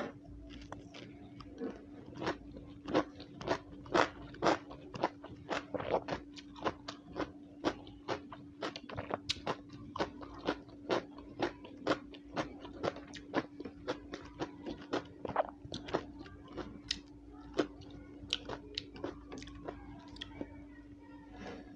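Close-up crunching and chewing of a raw green vegetable, crisp crunches about two a second that thin out near the end, over a steady low hum.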